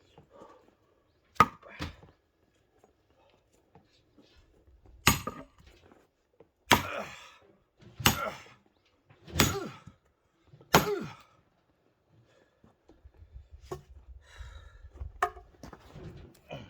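Axe chopping firewood: a sharp blow about a second in, then five heavy strokes about a second and a half apart, each followed by a brief crackle of splitting wood, and a couple of lighter knocks near the end.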